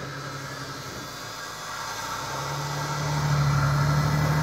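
Jeep Wrangler's engine running at a steady, low pitch under load as it climbs a steep slope under winch, growing louder about two seconds in as the Jeep comes closer.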